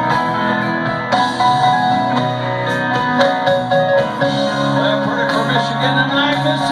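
Live rock band playing, guitar-led, over bass and drums, heard from the audience through a phone's microphone.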